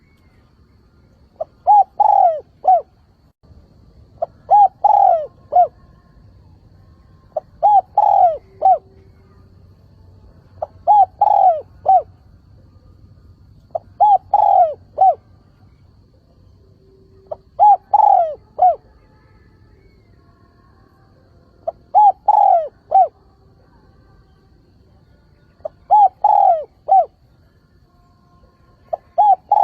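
Spotted dove cooing its territorial call, a short phrase of a few notes with one long note in the middle, repeated about every three and a half seconds, roughly eight times. It is the decoy call used to draw wild doves in.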